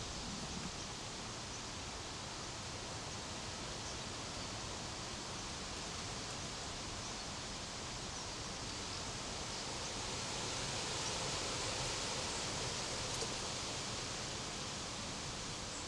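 Steady outdoor hiss with faint rustling, growing a little louder about ten seconds in.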